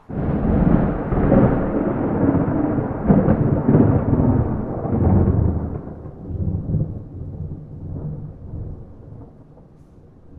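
A thunderclap that starts suddenly and rolls on as a long rumble, fading away over about ten seconds, with no rain.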